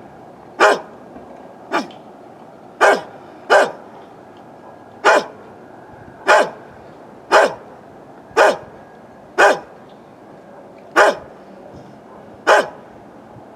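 An old dog barking single, separate barks about one a second, each dropping in pitch at its tail.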